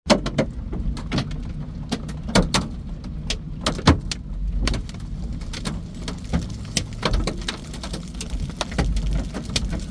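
Large hailstones hitting a vehicle: irregular sharp knocks, a few a second and some much louder than others, over a steady low rumble.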